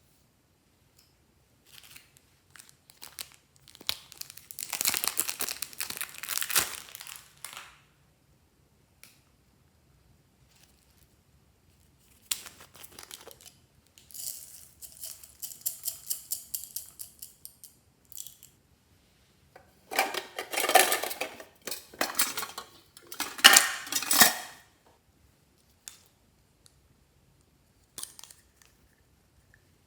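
Crinkling and rustling, like plastic packaging being handled and torn, in several separate bursts with quiet gaps between. The loudest bursts come about two-thirds of the way in.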